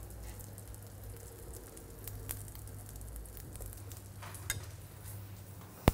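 Omelette of egg, tuna and vegetables sizzling gently in a nonstick frying pan, with faint scattered crackles over a steady low hum. A sharp click comes right at the end.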